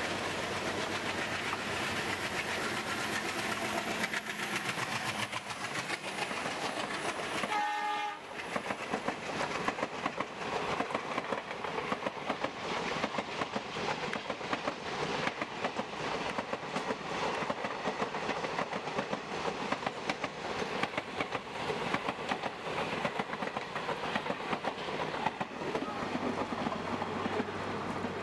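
A diesel-hauled passenger train passes close by on the next track. A short horn blast sounds about eight seconds in, then comes the steady, rapid clatter of the coaches' wheels over the rail joints.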